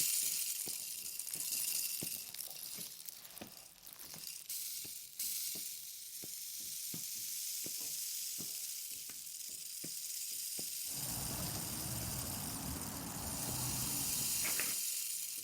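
Rain sound effect: a steady hiss of rainfall with scattered drips and taps. About eleven seconds in, a low rumble joins it, a car drawing near, then fades just before the end.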